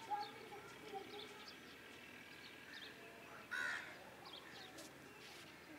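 Birds calling: a scatter of short, high chirps, and one louder, harsh call about three and a half seconds in.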